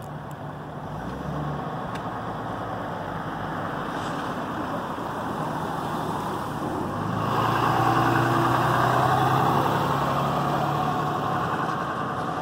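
Large truck engine idling steadily, with a louder rushing noise swelling about seven seconds in and easing off near the end.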